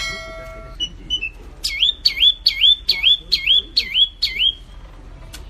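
A songbird singing a phrase of seven repeated swooping whistled notes, each dipping down and sweeping back up, about two a second, after a few short high notes. The recording cuts off suddenly at the very end.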